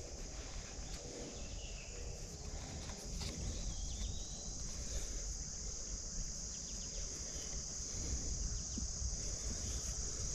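Steady insect chorus of crickets: one continuous high-pitched chirring that does not break, over a low, even background noise.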